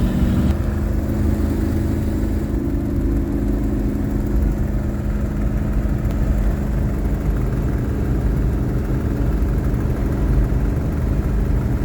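Steady engine drone and road noise inside the cab of a 1980s motorhome cruising at highway speed, with the engine note changing pitch slightly about half a second in.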